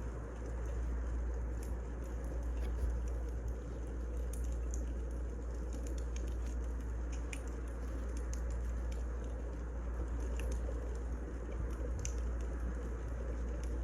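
Wood fire burning: a steady low rumble under sparse, irregular crackles and pops.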